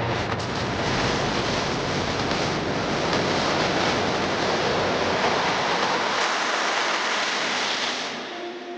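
A loud, steady rushing noise that fades out near the end.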